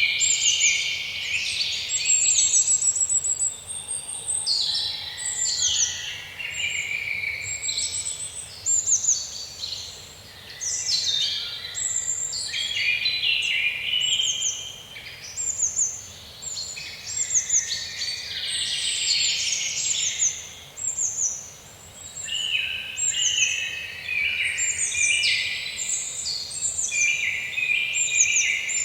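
Several songbirds singing and chirping at once, with quick falling chirps and trills overlapping all through.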